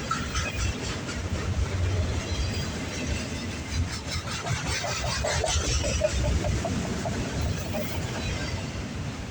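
Freight train of autorack cars rolling past: a steady rumble of steel wheels on rail with repeated clicks, and a few short squeals about halfway through.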